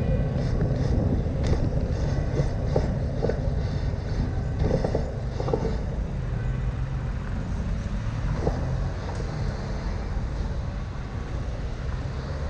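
Ride noise from a bicycle in city traffic: a steady low rumble of traffic and wind, with a string of light rattles and clicks through the first half.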